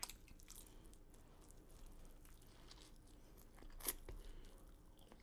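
Quiet, close chewing of food, with faint crunches and a sharper crunch about four seconds in.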